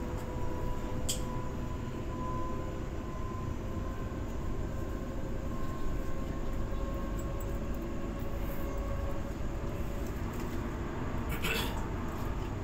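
Electric suburban train running along the track, heard from inside the carriage: a steady rumble of wheels on rail with a faint steady whine. There is a sharp click about a second in and a short rattle near the end.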